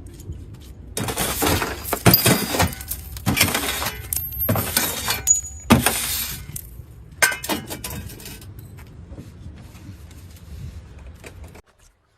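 Vehicle crash with breaking, shattering glass, heard as several loud crashing bursts over about six seconds, then dying down.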